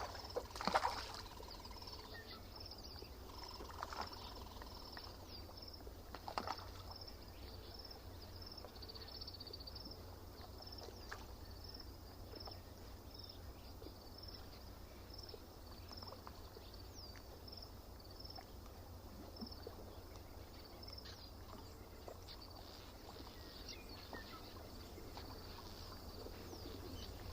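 Lakeside morning ambience: a small bird repeating a short high note about twice a second, with a few other bird calls over a faint, steady low rumble.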